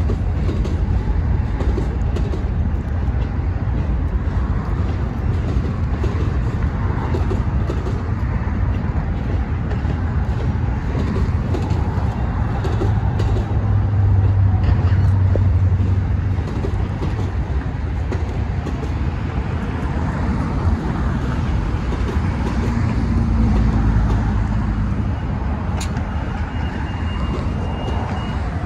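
A passenger train running by, a steady heavy rumble that swells a little partway through, with a brief faint higher-pitched tone near the end.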